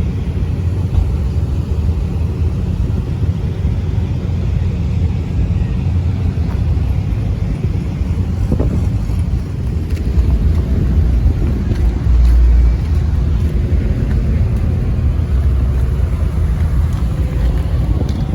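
Steady low rumble of motor vehicle engines running, with a stronger low surge about twelve seconds in.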